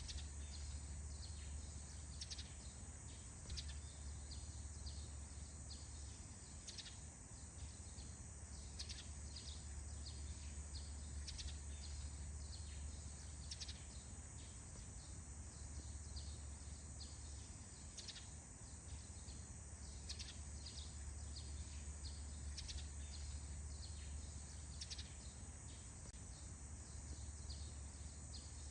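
Small birds chirping in a morning forest chorus: many short, high chirps scattered through, over a faint steady high hiss and a low steady rumble.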